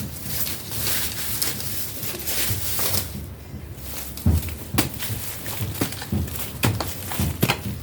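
A hand hoe (jembe) working garden soil: about three seconds of scraping and rustling, then dull chopping thuds at an irregular pace of about one a second, starting a little past four seconds in.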